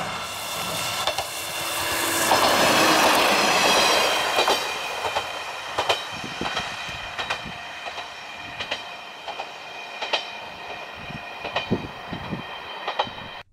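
Kanto Railway Jōsō Line diesel railcar approaching and passing, loudest about two to four seconds in, then rolling away with irregular clicks of its wheels over the rail joints. A steady high ringing tone runs beneath throughout.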